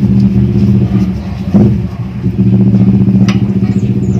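A motor running steadily close by, a low hum that drops briefly about halfway through, with a sharp click near the end.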